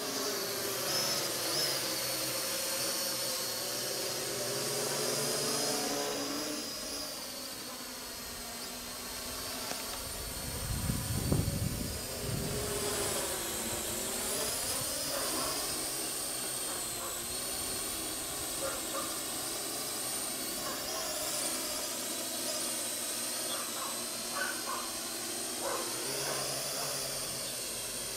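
Parrot AR.Drone 2.0 quadcopter's four electric rotors whining in flight, the pitch pattern sweeping slowly up and down as it moves about. About eleven seconds in there is a brief low rush of air.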